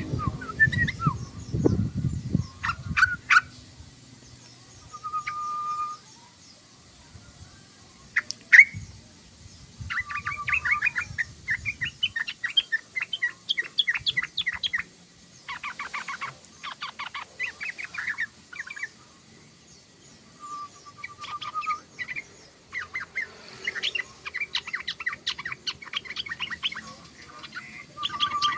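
Sooty-headed bulbul chattering: bursts of rapid, repeated notes with pauses between them, and a few short even notes. A low rumbling sound lies under the first few seconds.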